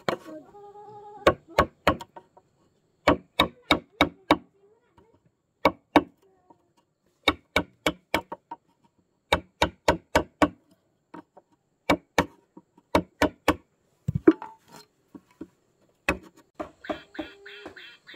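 Repeated sharp blows on wood, coming in quick groups of three to five strikes with short pauses between. Ducks quack near the end.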